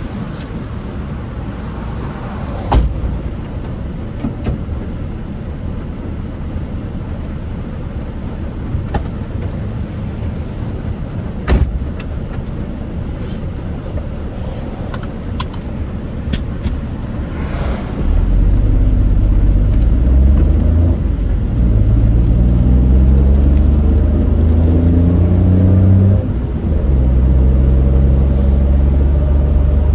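Car being driven on a wet road: steady road noise with a few sharp clicks. About 18 s in, the engine note grows louder and climbs in pitch as the car accelerates, with a brief drop near 26 s like a gear change before it carries on.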